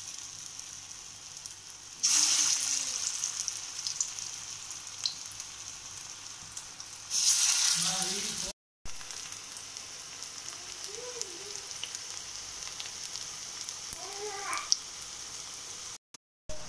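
Pointed gourd (parwal) cutlets shallow-frying in hot mustard oil in an iron wok, with a steady sizzle. The sizzle swells sharply twice, about 2 and 7 seconds in, and cuts out briefly twice.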